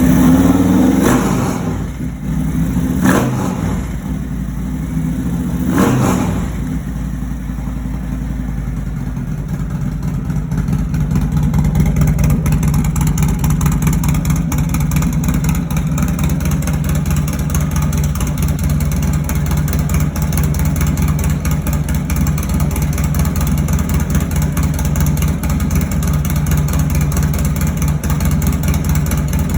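Harley-Davidson Milwaukee-Eight 117 V-twin, fitted with a Feuling 521 cam and D&D exhaust, is revved sharply three times in the first several seconds, each rev rising and falling quickly. It then runs steadily at a low, even note.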